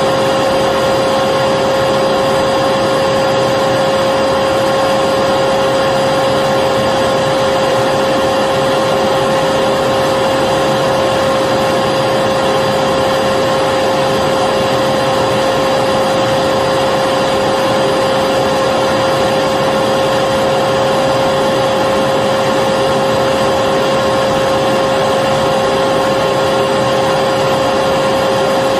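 Electric vacuum cleaner running continuously without change: a steady motor whine over an even rush of air.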